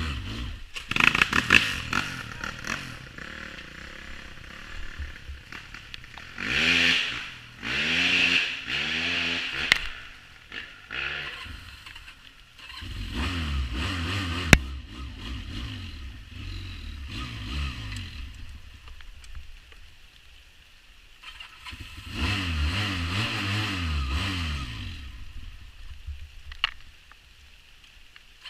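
Quad bike engine revving up and dropping back in several surges, with steadier running between and a few clatters and scrapes.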